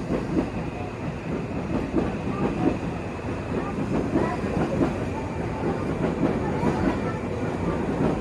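Seibu Railway electric commuter trains running along the tracks below, with an irregular clatter of wheels over the track.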